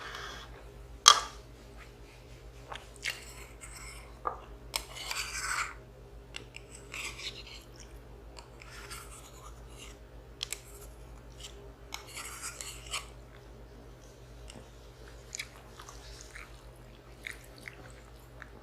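Close-up eating sounds: a person chewing a mouthful of instant noodles and rice, with a sharp click about a second in and several short noisy bursts lasting about a second each.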